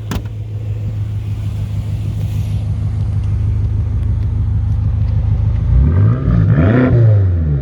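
2013 BMW M5's S63 twin-turbo V8 heard at the exhaust, idling steadily, then revved once about six seconds in, pitch rising and falling back to idle. The exhaust note is deep, without pops or bangs.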